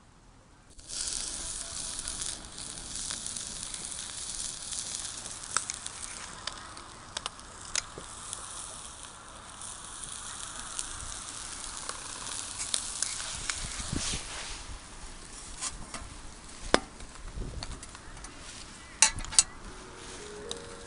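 Food sizzling on a hot pan or grill: the hiss starts suddenly about a second in, as the food goes on, and carries on steadily with scattered pops, plus two sharp clicks near the end.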